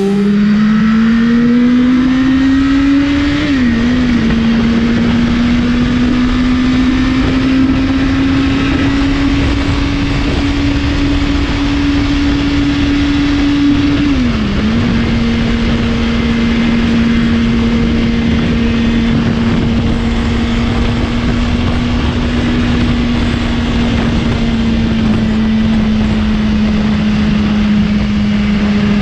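BMW S1000RR inline-four engine running at speed under load, its note climbing slowly and dipping briefly twice, about four seconds in and again near the middle, as gears change, then holding steady. Wind noise rushes over the microphone throughout.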